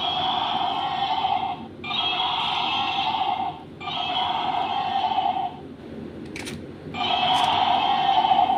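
Buzzy electronic sound from a battery-operated toy's speaker, repeating in bursts of about a second and a half with short gaps.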